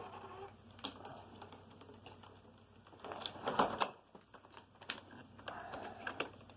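Irregular plastic clicks and knocks from handling a Hoover Concept One upright vacuum, whose drive-control switch has broken off, with a louder scraping rustle a little past halfway; the motor is not running.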